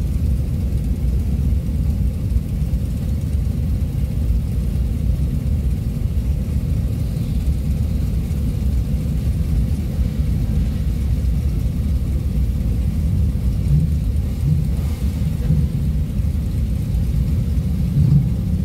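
Classic car engines idling in a steady low rumble, the cars stationary in a line.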